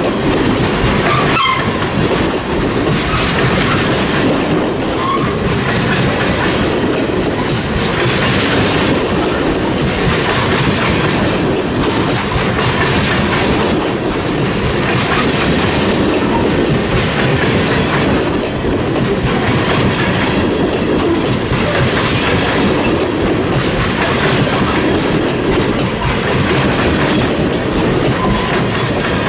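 Freight train cars rolling steadily past, their wheels clacking over rail joints in a regular rhythm.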